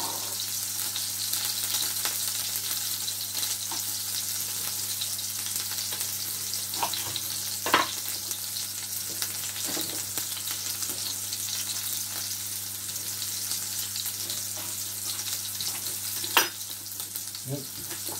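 Tuna steaks and halved radishes sizzling in hot oil and butter in a frying pan, a steady crackling hiss, with two sharp knocks, one near the middle and one near the end.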